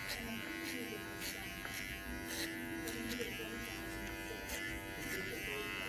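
TPOB GO hair clippers buzzing steadily, with scattered light ticks.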